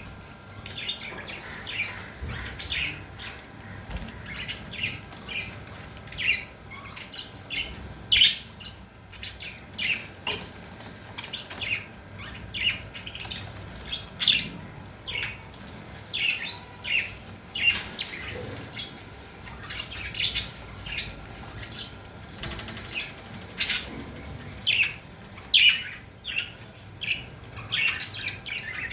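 Budgerigars chirping and squawking in quick, irregular short calls throughout.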